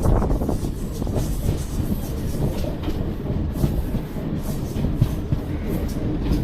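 Mumbai suburban local train running along the track: a steady low rumble of wheels on rail, broken by irregular short clacks.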